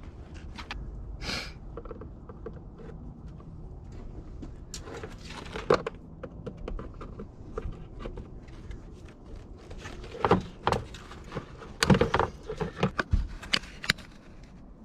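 Scattered knocks, clicks and rattles of parts and tools being handled, busiest in the second half, over a low steady rumble.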